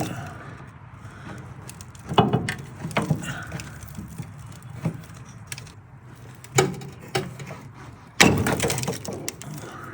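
Hand tools and small metal parts clinking and knocking: several separate sharp knocks, the loudest about eight seconds in with a short ring after it.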